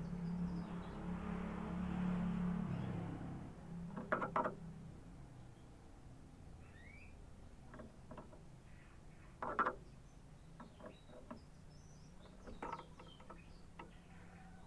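Canary giving scattered short, faint chirps and calls, one a quick rising note. Two sharp knocks sound about four and nine and a half seconds in, and a low hum runs through the first three seconds before fading.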